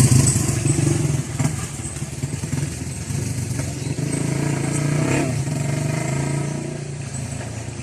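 Motorcycle engine running steadily at low revs, a little quieter after about the first second, with a couple of light clicks.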